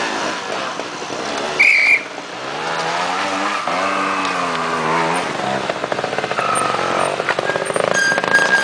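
Trial motorcycle engine revving up and dropping back in uneven bursts as the bike climbs over loose stones, with a brief high squeal about two seconds in and a choppy, low-revving run near the end.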